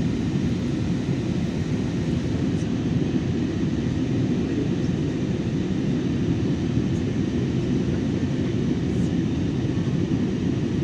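Steady low cabin noise of an airliner in flight, a constant even rumble.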